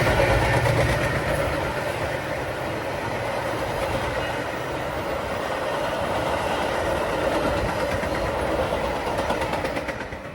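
A train rolling past: steady rumble of wheels on rail with rapid clicking over the joints, dropping off near the end.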